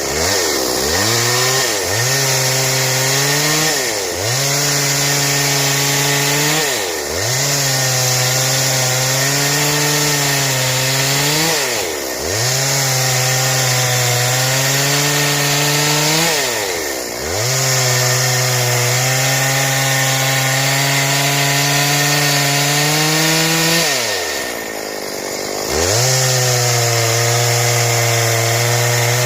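Stihl chainsaw running at high revs while cutting wood into boards. Its pitch drops and climbs back every few seconds, with the longest dip near the end.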